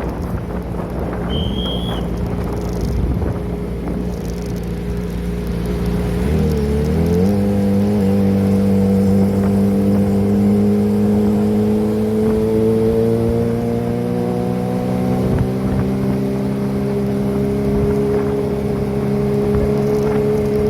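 Kawasaki ZX-25R 250 cc inline-four engine running through an aftermarket Prospeed exhaust while riding, a steady drone. About six seconds in the revs climb quickly, then the pitch keeps rising slowly as the bike accelerates.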